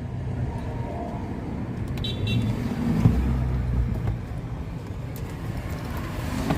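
Road traffic passing, a steady low rumble, with one vehicle going by loudest about three seconds in.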